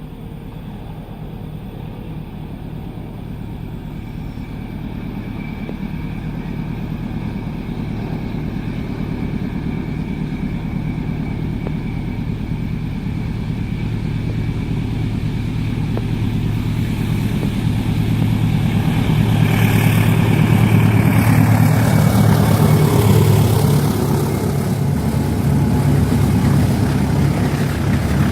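Diesel locomotive hauling a passenger train, its engine drone growing steadily louder as it approaches and loudest as it passes about twenty seconds in, followed by the rumble of the carriages going by.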